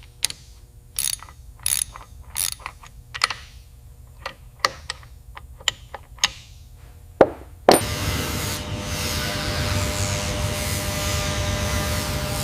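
Hand wrench ratcheting in irregular sharp clicks as bolts are tightened. About eight seconds in, a loud steady rushing noise starts and carries on.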